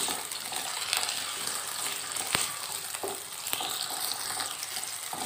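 Potato wedges sizzling as they fry in mustard oil in a pan, turned with a slotted spatula that scrapes and taps against the pan now and then. One sharper tap comes a little past two seconds in.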